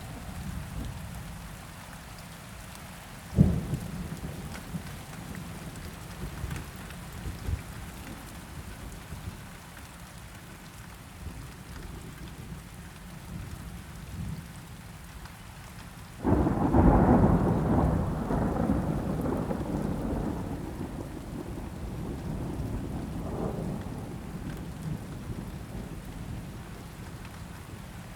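Steady rain with rolling thunder: a brief low thud about three seconds in, then a loud thunderclap a little past halfway that rumbles on and slowly fades.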